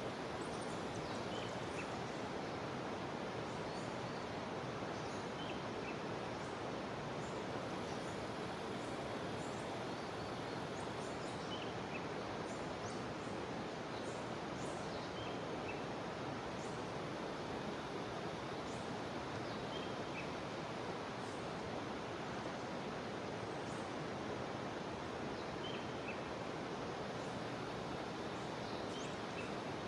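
Jungle river water rushing steadily, with short high animal chirps scattered over it every few seconds.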